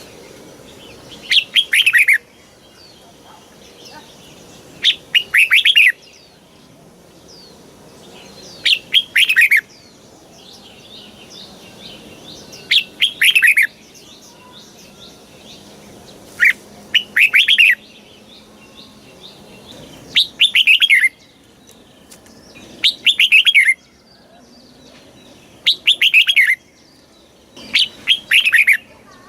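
Red-whiskered bulbul singing, repeating its short, loud song phrase nine times, about every three to four seconds. Each phrase is a quick run of falling whistled notes.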